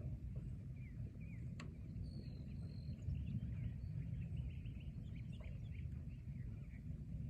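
Forest ambience: many small birds chirping and twittering over a steady low rumble, with one thin high whistle held for about a second near two seconds in.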